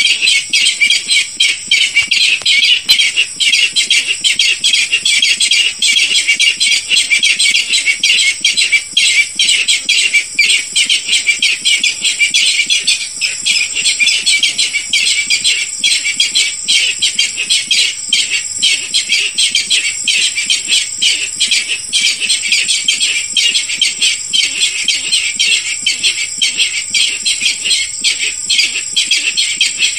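Barred rail calling: a dense, continuous run of rapid, high, harsh notes, with a steady high-pitched tone running behind them.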